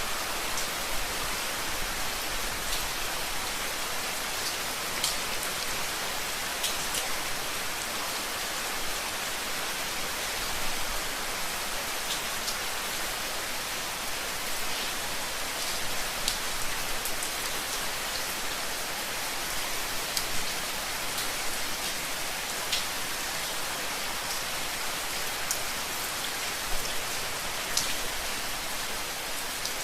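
Steady rain falling, a constant hiss with scattered individual drops ticking close by.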